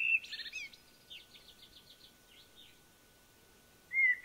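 A small songbird singing. Whistled phrases with sliding notes are followed by a run of quick, higher notes, and a new phrase begins near the end.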